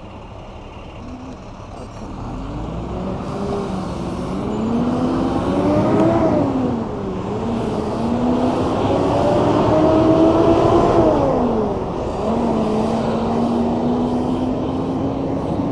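A motor vehicle's engine accelerating close by, its pitch climbing and dropping back several times as it shifts up through the gears, over road and wind noise.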